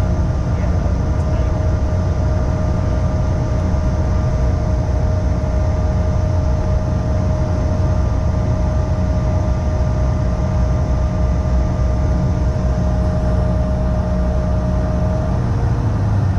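Cabin noise aboard a Bombardier CRJ-550 regional jet: the steady low rumble of its rear-mounted GE CF34 turbofans with a steady whine over it that stops near the end, while a fainter tone rises slightly.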